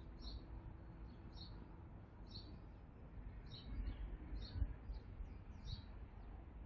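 A bird repeating a short, high chirp about once a second, over a low outdoor rumble.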